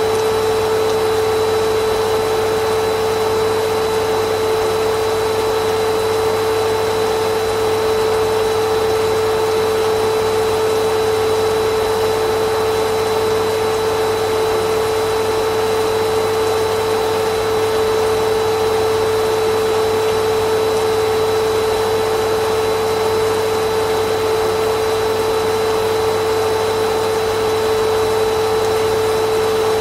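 Vacuum cleaner motor running continuously: a steady rush of air with a constant whine, unchanging throughout.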